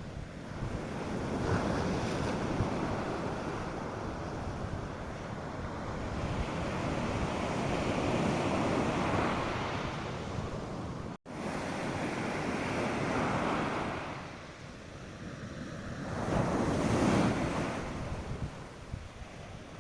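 North Sea surf breaking and washing up a sandy beach, in swells that rise and fade, the loudest surge near the end, with light wind on the microphone. The sound cuts out for an instant about halfway through.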